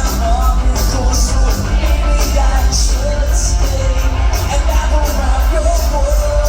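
Live rock band playing at full volume: heavy bass and drums with cymbals crashing on a steady beat, under a sung vocal melody.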